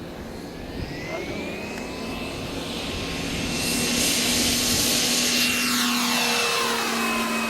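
Turboprop engine and propeller of a radio-controlled Pilatus Porter model aircraft in flight. A whine rises in pitch early on, then the engine sound swells to its loudest about four to six seconds in and drops in pitch as the model passes by.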